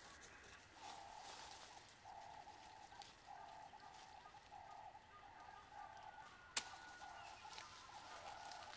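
Faint bird calls, a short steady note repeated about once a second, with a single sharp click about two-thirds of the way through.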